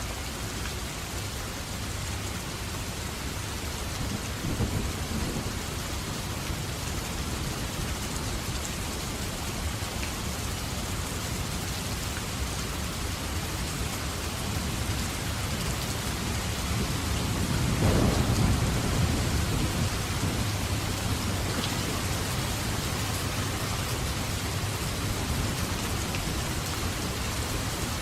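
Steady heavy rain with rolls of thunder: a short rumble about four seconds in and a louder, longer one near two-thirds of the way through that fades over a few seconds.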